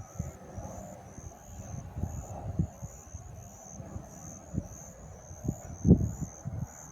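Wind buffeting the microphone in irregular gusts, with a faint high chirp repeating steadily about twice a second.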